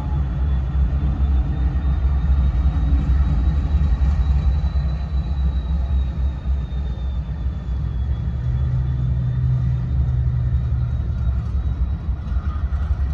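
A train's steady low rumble, with a faint wavering high whine above it.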